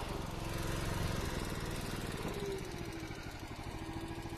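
Small gasoline engine of a hydraulic log splitter running steadily, with a thin wavering whine over it.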